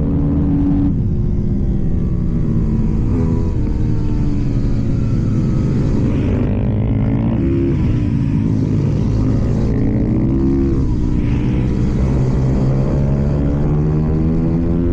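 KTM supermoto motorcycle engine running at race pace, its revs climbing and dropping several times as the rider accelerates and backs off.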